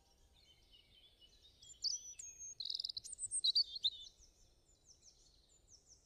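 Birdsong: a songbird's quick chirps and short trills, loudest in the middle, then fainter repeated chirps near the end.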